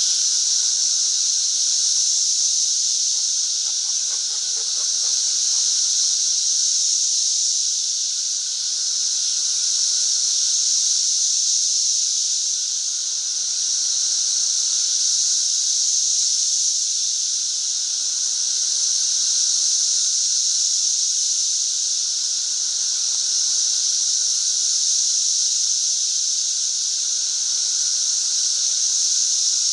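Dense chorus of Magicicada periodical cicadas: a loud, steady, hissing drone that gently swells and fades every few seconds.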